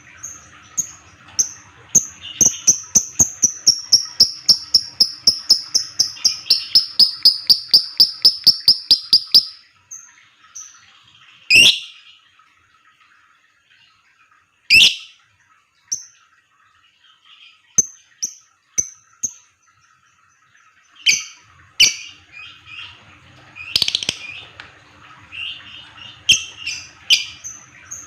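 Lovebird giving a long 'ngetik' run of rapid, clipped, typing-like chirps, about four a second and slowly falling in pitch. The run stops after about nine seconds. A couple of sharp single calls and scattered chirps follow, and irregular chirping picks up again near the end. This 'ngetik' song is prized by keepers of fighter lovebirds.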